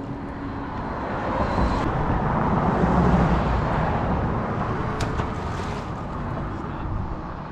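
A road vehicle passing by, its noise swelling to a peak about three seconds in and then fading away, with a sharp click about five seconds in.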